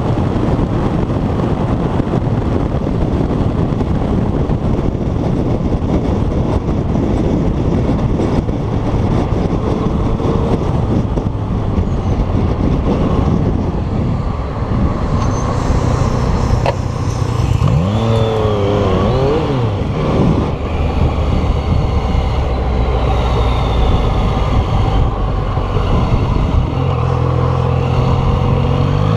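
Motorcycle riding at speed, with heavy wind rush and engine noise. The engine revs up and back down about two-thirds of the way through, and climbs again in a rising rev at the very end.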